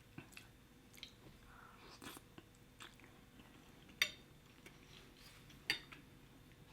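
Close-miked chewing and mouth sounds of someone eating shrimp Alfredo pasta: a scatter of short, faint wet clicks, with two sharper clicks about four and five and a half seconds in.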